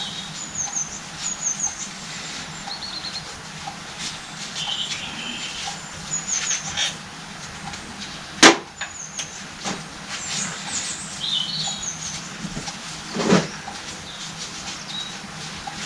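Small birds chirping in short high calls again and again, over light clicks and taps of small parts being handled, with one sharp knock about halfway through and a softer one later.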